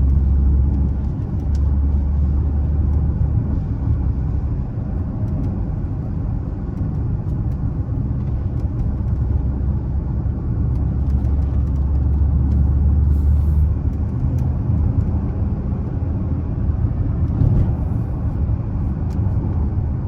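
Dodge Charger V6 cruising on a wet road, heard from inside the cabin: a steady low drone of engine and tyre noise.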